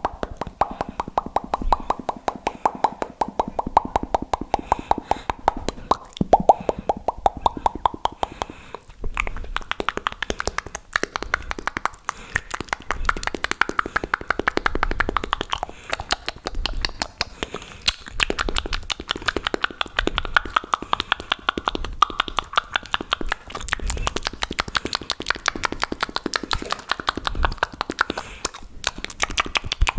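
ASMR mouth sounds made fast into a close microphone: a rapid, continuous run of wet clicks and pops from the lips and tongue.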